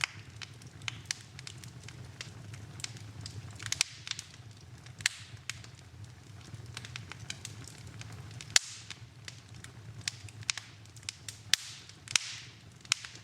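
Wood fire in a fireplace crackling, with sharp irregular pops, the loudest a little past halfway, over a low steady rumble.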